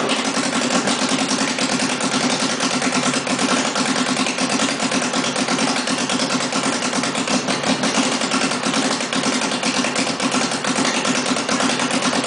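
Formula SAE race car's engine running steadily on its first start-up, loud, with rapid even firing pulses and no big changes in revs.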